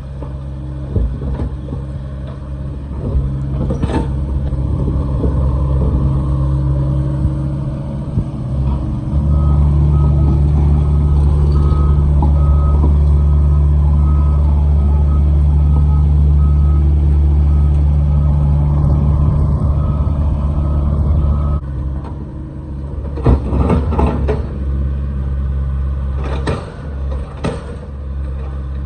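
Heavy construction machine's engine running, working harder through the middle stretch, while its backup alarm beeps in a steady pulse for several seconds. Near the end come a few sharp knocks.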